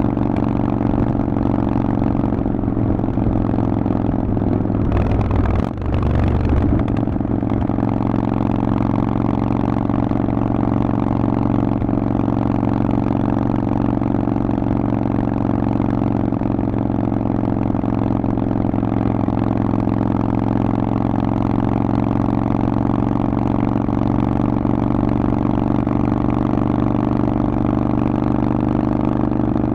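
Harley-Davidson Forty-Eight's 1200 cc air-cooled V-twin running steadily through a Vance & Hines exhaust, with a brief dip in loudness and a shift in pitch about six seconds in.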